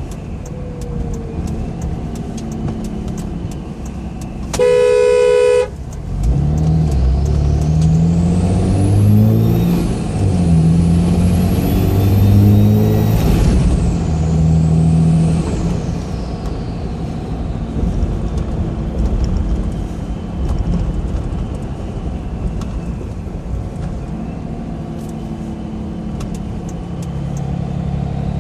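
Cummins 5.9-litre straight-six turbodiesel in a Ram Mega Cab pickup accelerating, heard from inside the cab, with a high turbocharger whistle that climbs in pitch and drops back several times as the truck pulls through the gears; it is fitted with a Spectre aftermarket intake. A vehicle horn honks once for about a second shortly before the truck pulls away.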